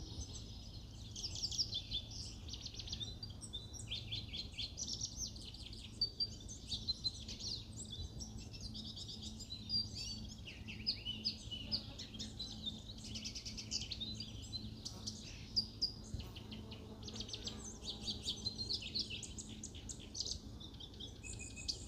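Lawrence's goldfinch singing a long, jumbled song of rapid high notes and twitters, largely made of imitations of other species' calls and songs, over a low steady hum of background noise.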